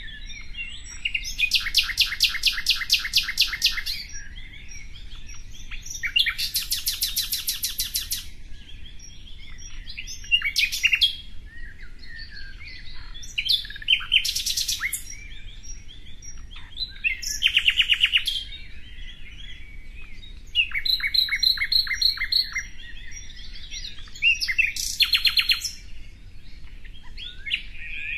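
Songbird singing: bursts of very fast, high trills, each one to two seconds long, come every few seconds, with softer chirps and twitters between them.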